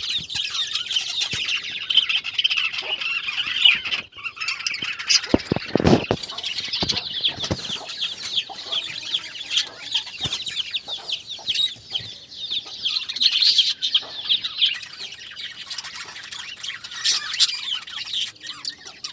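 A flock of budgerigars chattering and warbling continuously, with a brief burst of low flapping thumps about five to six seconds in.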